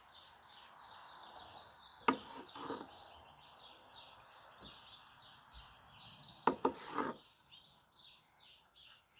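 A small bird chirping over and over, about three short chirps a second. A knife knocks sharply on the wooden cutting board about two seconds in and a few more times about two-thirds of the way through, as slices are cut from the smoked bologna log.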